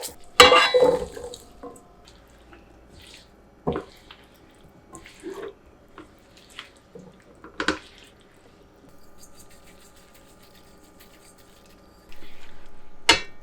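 Kitchen sink sounds: a splash of water, then scattered knocks and clatters of kitchenware, with water running again near the end.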